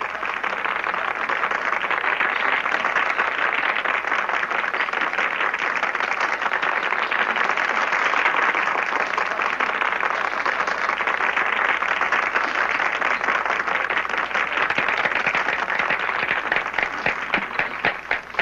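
Audience applauding, a dense wash of clapping that thins out near the end into separate claps.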